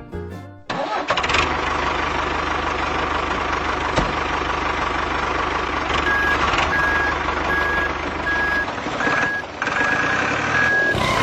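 Vehicle engine starting up and running with a steady low rumble. From about six seconds in, a reversing alarm beeps about twice a second.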